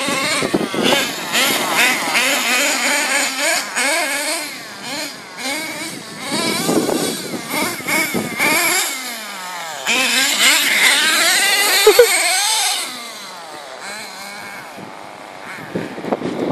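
Small high-revving .18 nitro engine of an RC monster truck, revving up and down over and over as the throttle is worked. A single sharp knock comes about twelve seconds in, and the engine is quieter for a few seconds near the end.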